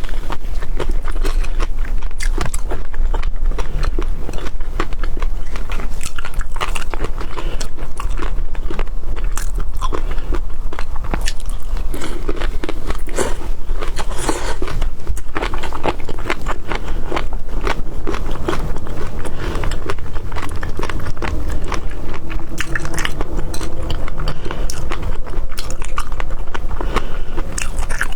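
Close-miked chewing and biting of seafood for ASMR, with many quick, irregular crunches and clicks throughout.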